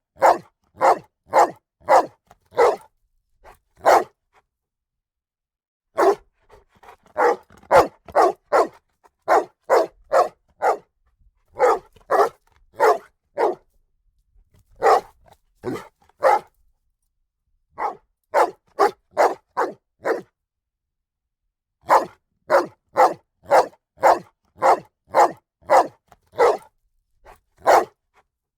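A dog barking over and over, in bouts of several sharp barks at roughly one to two a second, separated by pauses of one to two seconds: protective warning barking.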